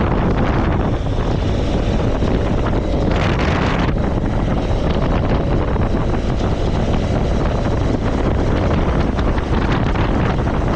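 Steady, loud wind rush buffeting the microphone of a moving motorcycle, with the bike's running noise underneath.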